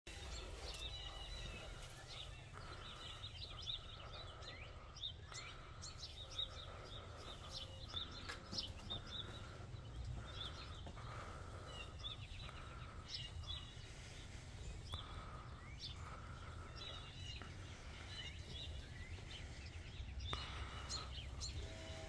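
Small birds chirping and twittering, many short high calls throughout, over a steady low background rumble.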